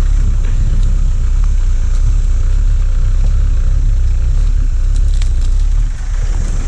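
Four-wheel-drive vehicle's engine running with a steady low rumble as it crawls along a rough track, with a few faint clicks about five seconds in.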